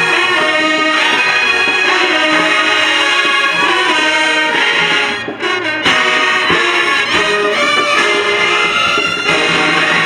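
High school marching band playing brass-heavy music, with trombones and trumpets over drums. It breaks off briefly a little past halfway, then comes back in with drum hits.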